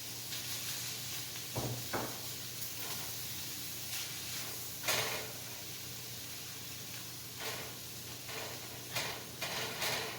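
Cabbage and vegetable stir fry sizzling steadily in a pan on medium-low heat, with several short scrapes and knocks as shredded chicken is added and stirred in.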